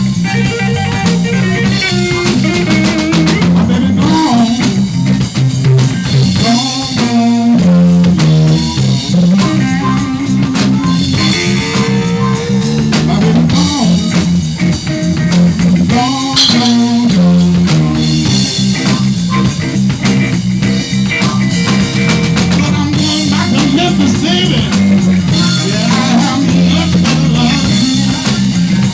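Live blues band playing: drum kit, electric guitar and bass in a steady groove.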